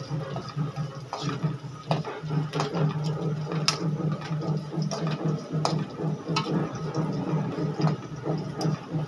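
Onions, green chillies and fenugreek seeds sizzling in hot oil in a kadhai as they are roasted, with scattered sharp clicks and scrapes from a spatula stirring against the pan.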